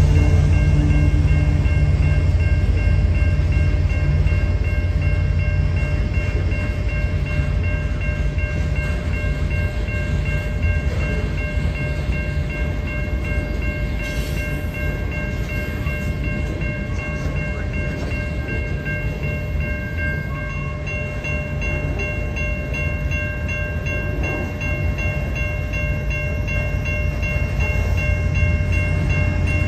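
A string of loaded covered hopper cars on a sand freight train rolling steadily past, a continuous low rumble of wheels on rail. Grade-crossing signal bells ring without a break over the rumble.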